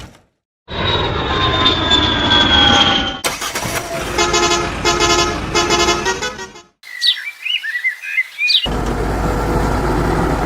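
A string of spliced vehicle sounds. First a running machine with a slowly falling whine, then three short horn toots about half a second apart, then a couple of seconds of bird chirps. A steady engine running with a low rumble takes over near the end.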